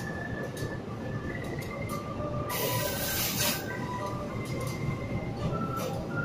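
Passenger train coaches rolling past, a steady low rumble of wheels on rail. Thin high tones come and go above it, and a burst of hiss comes about two and a half seconds in and lasts about a second.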